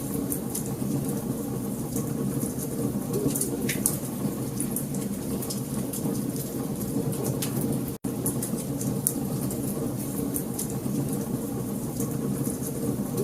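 Wood fire burning, with a steady low rumble under frequent sharp crackles and pops from the burning logs. The sound cuts out for an instant about eight seconds in.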